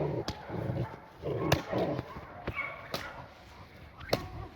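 Young Presa Canario dog barking in two short bursts in the first two seconds. Five sharp cracks sound at intervals, the loudest about a second and a half in.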